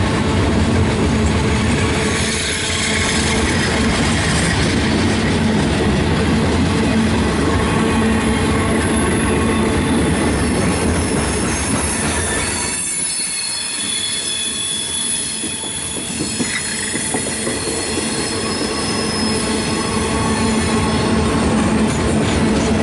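Railroad cars rolling past with a steady rumble and high, sustained wheel squeal, with a brief slight dip in loudness just past the middle.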